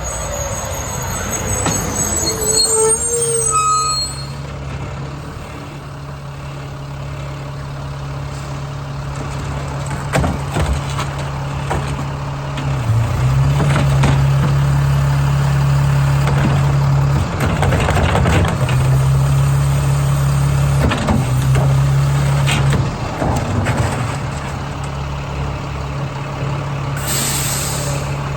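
Garbage truck's diesel engine running, revving up briefly about halfway through and again a few seconds later, with scattered knocks and clanks. A short squeal comes early on, and a burst of air hiss from the air brakes comes near the end.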